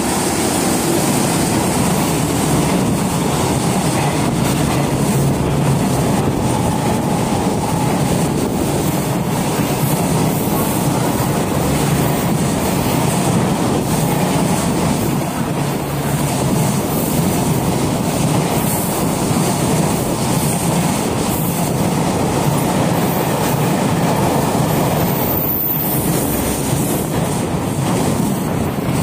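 Container freight train hauled by an EF210 electric locomotive passing close by without stopping: a loud, steady rumble of steel wheels on rail, with many quick clicks of wheels crossing rail joints as the wagons go by.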